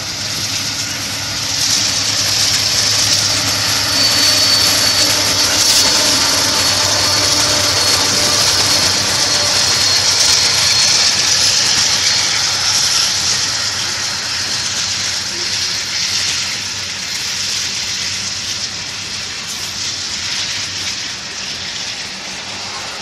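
Freight train of covered hopper cars rolling past behind diesel locomotives: a steady rush of steel wheels on rail with a low engine hum. It swells over the first couple of seconds, then fades slowly as the train draws away, with a brief thin high squeal about four to six seconds in.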